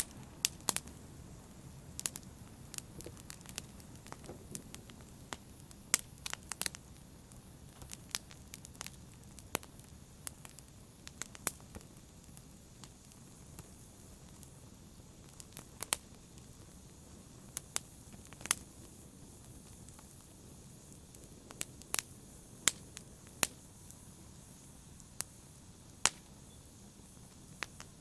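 Wood fire burning in a fireplace: a low steady hiss with irregular sharp crackles and pops from the burning logs.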